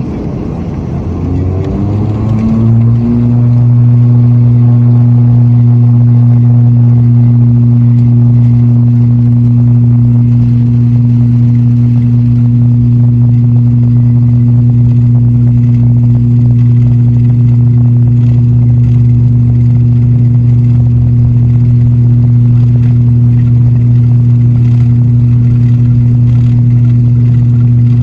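ATR 72-600's turboprop engines and six-blade propellers spooling up to take-off power, the propeller drone rising in pitch over the first three seconds, then holding a loud steady hum through the take-off.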